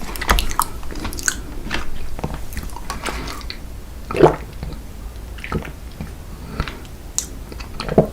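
Close-miked mouth sounds of a person eating strawberry chocolate ice cream dessert cake: chewing and biting with wet clicks, busy at first and thinning out later, with one louder mouth sound about four seconds in.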